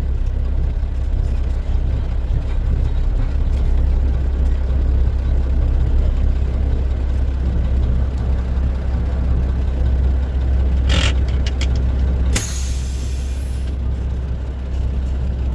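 Dump truck's diesel engine running with a steady low rumble heard from inside the cab. About twelve seconds in, a loud burst of compressed-air hiss lasts about a second and a half, just after a few short clicks.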